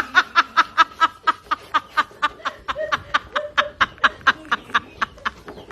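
A bird giving a fast, even series of short chattering calls, about five a second, easing off a little near the end.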